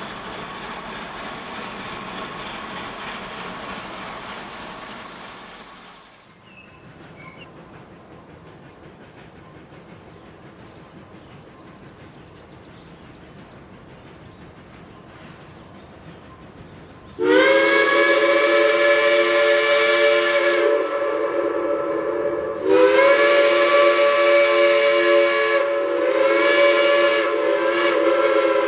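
Steam locomotive chime whistle, most likely the Climax geared locomotive's, blowing a long, long, short, long pattern, the grade-crossing signal, several notes sounding together. Before it, a steady rushing noise for the first few seconds, then a quieter lull.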